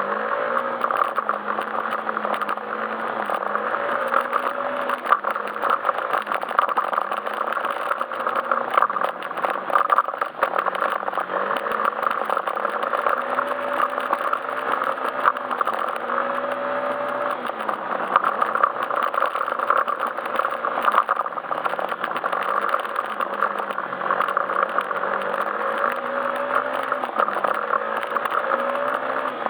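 Yamaha Majesty S scooter's single-cylinder engine running under way, its pitch rising and falling every few seconds as the throttle is opened and closed. Steady road and wind noise, with many small rattles and knocks.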